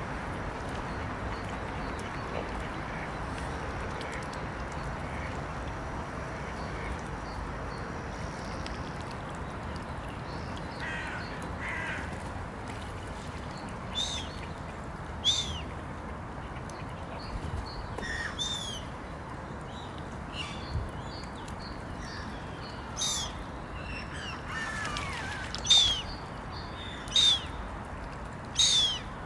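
Birds on a pond calling with short, harsh cries that drop in pitch, sparse at first and coming more often and louder in the last few seconds, over a steady background hiss.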